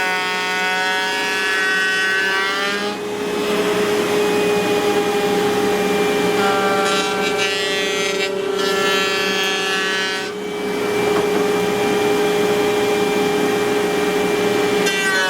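Electric wood router running with a steady high whine, while a second whine drops and rises in pitch as the bit cuts along the panel edge.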